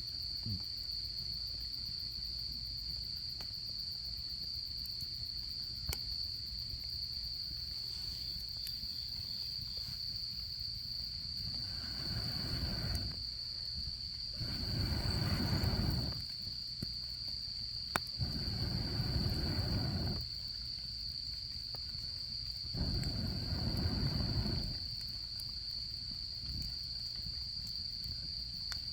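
Autumn crickets chirping in a steady, unbroken high trill. Four times, starting about twelve seconds in, a low rushing sound swells and fades over a second or two, and there are a few faint pops.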